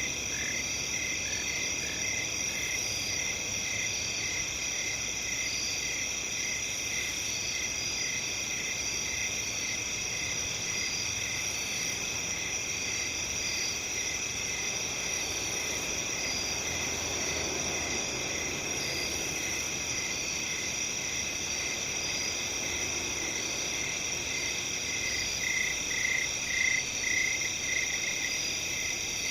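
Night chorus of crickets and other insects trilling steadily in several high, overlapping tones, with a lower insect call pulsing at an even rhythm that grows louder near the end.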